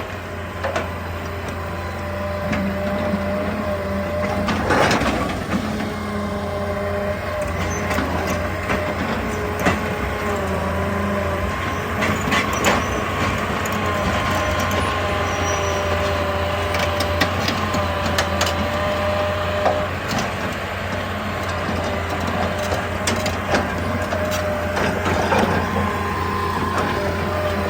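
Excavator working rock: the diesel engine runs steadily under a wavering hydraulic whine, with irregular knocks and scrapes of stone.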